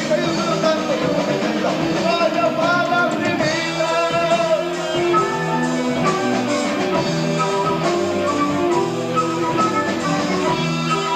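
Progressive rock band playing live, heard on an amateur tape recording. A wavering lead line, voice or instrument, sounds over the first few seconds, then the band moves into steady held chords.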